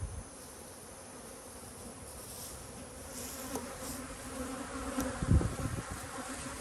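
Honeybees buzzing around the hives, growing louder as bees fly close past the microphone. A single low thump a little past five seconds in.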